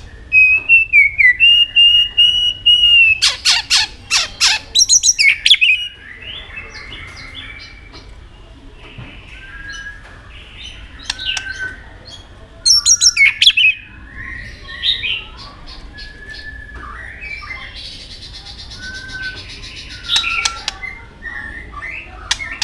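White-rumped shama singing a varied song: clear held whistles at the start, then loud harsh rattling phrases about three seconds in and again around the middle, with softer whistled notes and chatter between.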